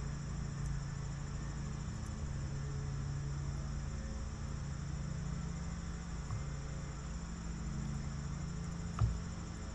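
Crickets chirring steadily, over a low steady hum, with one sharp click near the end.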